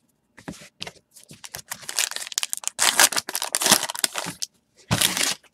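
Rustling and crinkling of trading-card pack wrappers and cards being handled. The sound comes as a run of quick, irregular bursts for about four seconds, then one more burst near the end.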